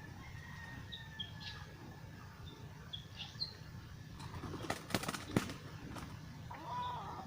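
Birds calling in short high chirps and a thin falling whistle, with a brief flurry of sharp flapping clatters about four to five seconds in, the loudest part. A lower arched call follows near the end.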